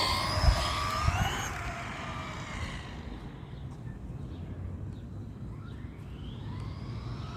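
High-pitched whine of brushless electric RC truck motors, falling in pitch as a truck slows, with two sharp knocks in the first second or so. It then quietens, and a whine rises again near the end as a truck speeds up.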